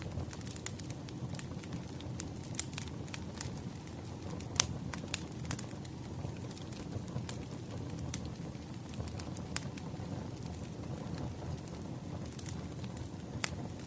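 Firewood burning: a steady low rush with irregular crackles and sharp pops, the loudest pop about four and a half seconds in.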